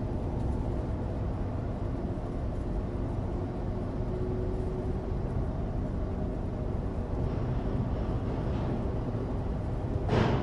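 Inside the cabin of a 2016 Suzuki Alto Turbo RS on the move: its 660 cc turbocharged three-cylinder engine running steadily under a constant road and studless-tyre rumble. A short rush of noise comes near the end.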